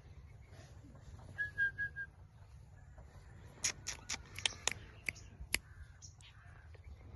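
Indian ringneck parakeet giving a short run of four whistled notes on one pitch, then, about halfway through, a quick flurry of sharp clicking chirps.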